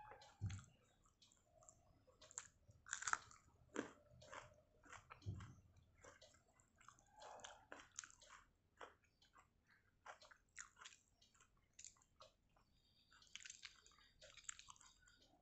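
A person chewing and crunching food, eating water-soaked rice with fried gram-flour fritters and fried potato: faint, irregular crisp clicks and wet mouth sounds.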